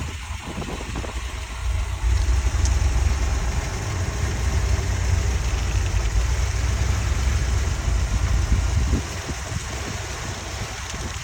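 1964 Corvette's 365 hp 327 V8 idling with a steady low rumble, which is louder from about two seconds in until about nine seconds.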